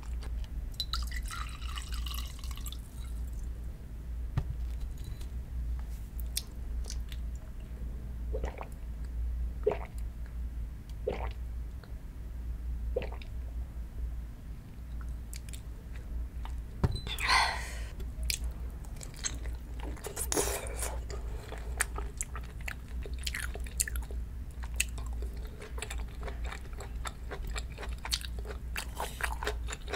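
Close-up eating sounds: chewing and wet mouth noises, with a shot of soju sipped and swallowed about halfway through, over a steady low hum.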